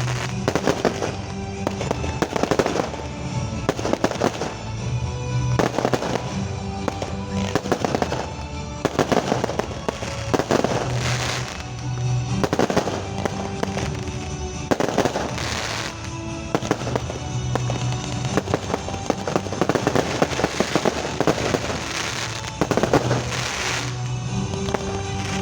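Fireworks going off in a continuous display, bursts and crackles every second or two, with music playing underneath.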